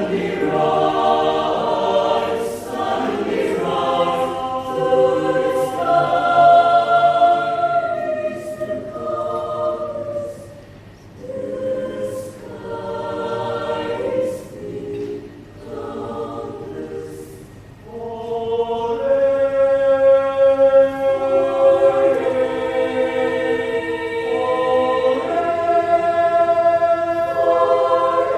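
Youth choir singing in parts, holding sustained chords; the singing drops to a softer, broken-up passage in the middle, then swells back to full, loud chords about two-thirds of the way in.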